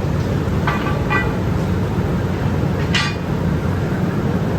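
Steady low rumble of heavy factory machinery, with three brief high-pitched sounds cutting in about a second and three seconds in.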